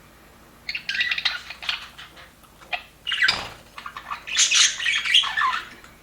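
Budgerigars chattering and warbling in quick, busy bursts of chirps and squawks, starting about a second in and going on until near the end.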